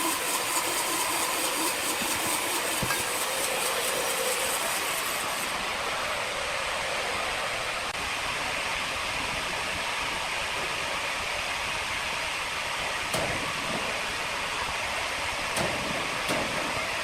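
Sawmill machinery running steadily with a continuous hissing noise. A faint tone fades out in the first couple of seconds, and a few short knocks come near the end.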